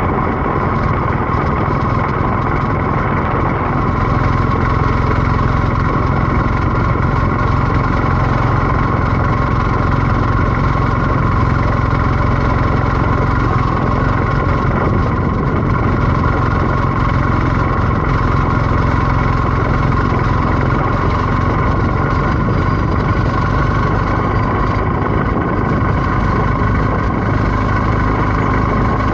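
BMW R1250GS 1254 cc boxer-twin engine running steadily at an unchanging pitch, with no revving or gear changes.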